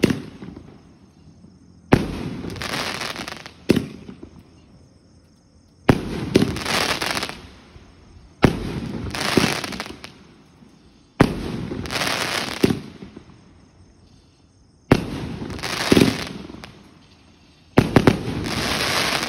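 2-inch canister shell fireworks cake firing shell after shell, about six shots every two to four seconds. Each is a sharp bang followed by a second or two of crackling from the bursting shell.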